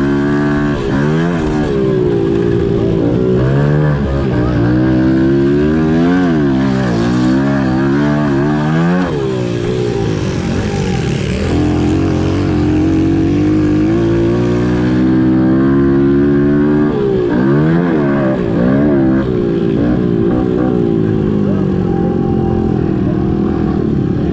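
Pit bike's small single-cylinder four-stroke engine racing at high revs, its pitch climbing and dropping every second or two as the throttle is opened and closed and the gears are shifted.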